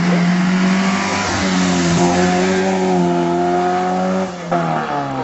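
A sports car with an MGB engine racing up a hill climb at high revs, a steady engine note with brief dips between gears. About four and a half seconds in the note drops in pitch as the car goes away.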